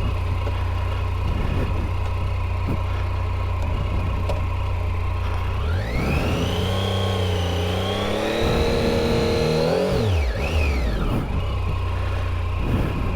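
Triumph Tiger 800 XCA's three-cylinder engine running at idle, revved up about six seconds in, held briefly and let fall back to idle. The clutch is overheated and, in the rider's words, he has no clutch.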